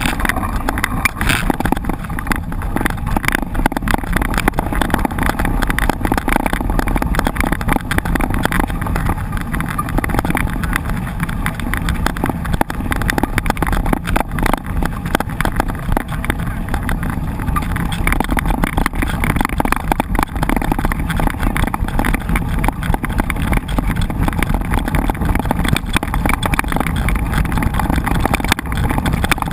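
Wind rushing over the microphone with a continuous clatter of small knocks and rattles from a mountain bike riding over a rough trail.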